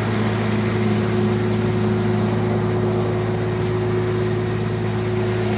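Tractor engine running at a steady speed, a constant drone with no changes, powering the sawmill through its PTO.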